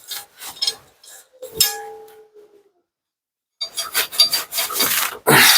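Rubbing and rustling handling noises, with one metallic clank about a second and a half in that rings briefly and fades; after a short gap the rubbing and scraping comes back denser and louder.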